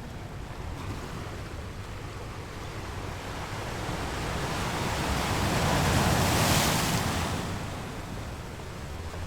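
Ocean surf washing on a shore: a steady hiss of waves with one wave swelling to its loudest about six seconds in and then falling away.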